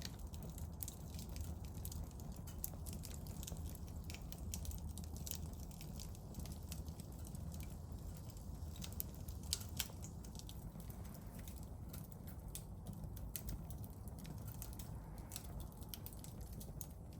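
Firewood burning in a small campfire, crackling with irregular small pops and two louder snaps about halfway through, over a low steady rumble.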